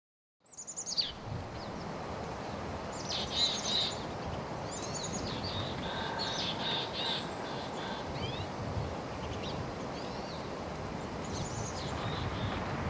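Small birds chirping in quick, downward-sweeping calls, several in clusters, over a steady background rush. It fades in after about half a second of silence.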